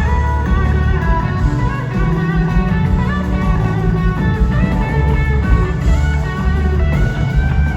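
Live rock band playing: an electric guitar carries a melodic lead with held and gliding notes over bass and drums.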